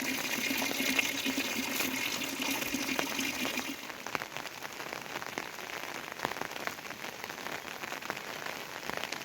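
Rain falling, with many separate drops striking close by. For the first few seconds a denser steady rush with a low hum sits under it, and it cuts off abruptly about four seconds in.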